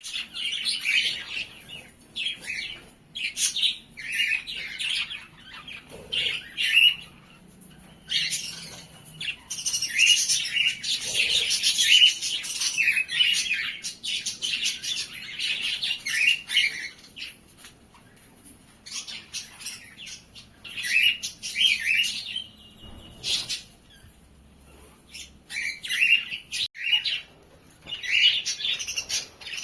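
Caged pet birds chirping: many short, quick calls in clusters with brief pauses between them, and one held whistle a little after the middle.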